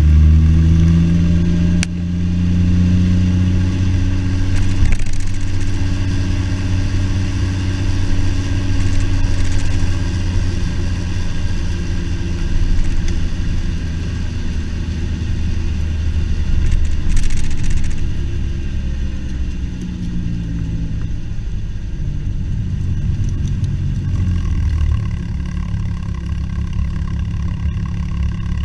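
2007 Porsche Cayman S's flat-six engine running through its exhaust, the revs rising at the start, then holding a steady engine note with small changes in pitch; the deep low note eases off near the end.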